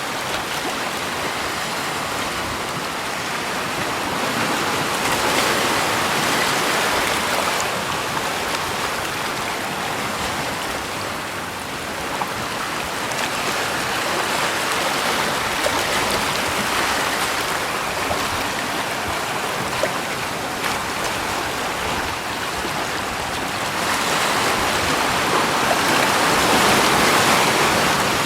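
Rushing water: a steady, full hiss that swells louder twice, once a few seconds in and again near the end, with a few faint splashy clicks.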